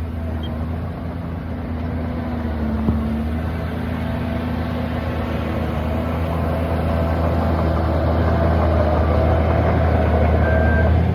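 Heavy diesel engine of earthmoving machinery running steadily and slowly growing louder. Near the end a reversing alarm starts beeping.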